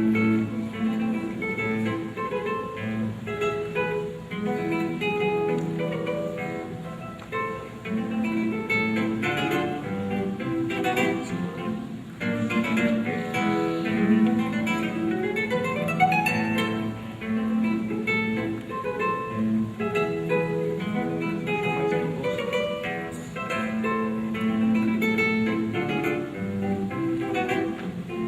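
Solo acoustic guitar playing an instrumental piece, notes plucked in a flowing run, with a rising slide up the strings about halfway through.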